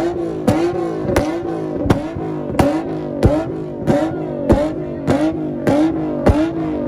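Nissan Z cars' V6 engines held on a two-step rev limiter, firing a sharp bang about every two-thirds of a second, the revs dipping and climbing back after each bang in an even rhythm.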